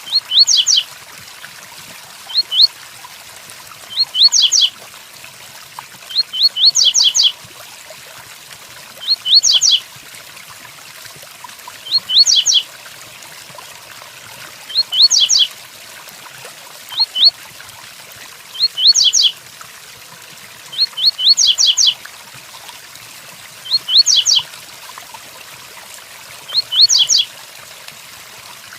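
Double-collared seedeater (coleiro) singing a short 'tui-tuí' phrase of quick rising notes, repeated about a dozen times at intervals of two to three seconds, over a steady hiss of rain.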